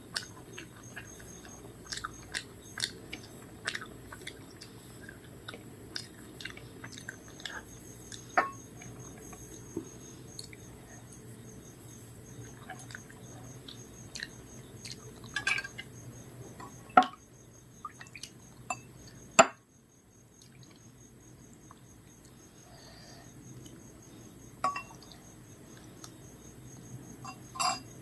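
Close-up eating sounds: chewing and smacking of rice and fried food, with scattered clicks and clinks of a plate. Two sharp, loud clicks come a couple of seconds apart past the middle.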